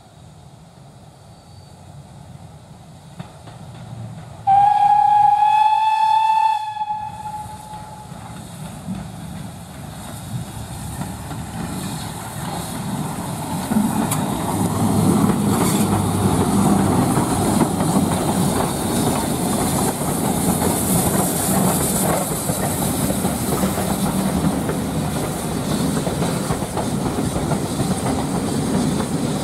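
A steam locomotive's whistle sounds once for about two seconds. Then the train's running noise of steam, rumble and wheels on the rails builds up and stays loud as it comes by.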